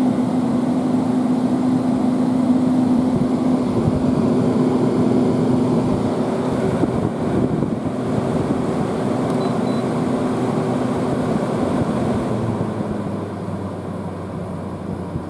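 Window air conditioner running: a steady fan rush with a low humming tone, the level easing down over the last few seconds.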